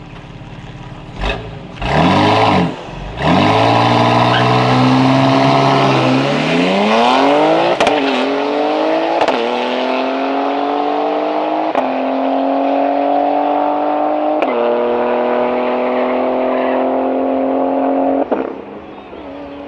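A car engine blips twice, then launches and accelerates down a drag strip. Its pitch climbs and drops back at each of four upshifts, then falls away sharply as the driver lifts off near the end.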